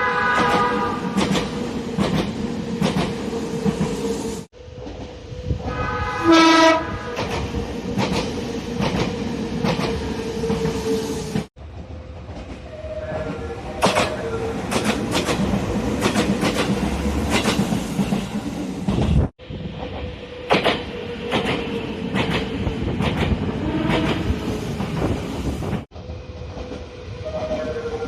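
Nagano Electric Railway express trains running on jointed track, with a steady tone and regular clicks of wheels over rail joints. Short horn blasts sound at the very start and again about six seconds in. The sound is spliced from several recordings and cuts off abruptly between them.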